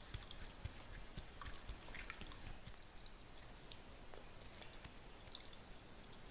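Fingertips scratching and rubbing through a beard and over skin, close to the microphone: soft, irregular crackles and scratches.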